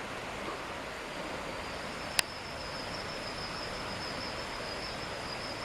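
Steady outdoor background noise with a single sharp click about two seconds in, followed by a faint, steady high-pitched whine.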